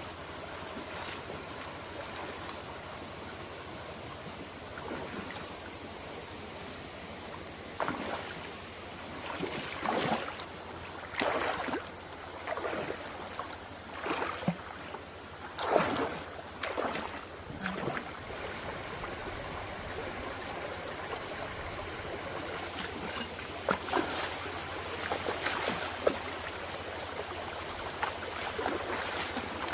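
Steady sound of running stream water, with a run of sudden louder sounds such as splashes or knocks between about 8 and 18 seconds in, and a few more near 24 seconds.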